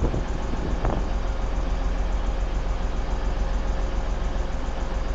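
Class 185 diesel multiple units idling: a steady low engine rumble with a faint steady whine above it, and a small click about a second in.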